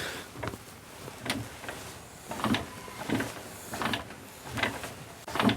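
A ring spanner being worked on a nut: about seven short metal clicks and knocks at uneven intervals as the spanner is shifted and turned.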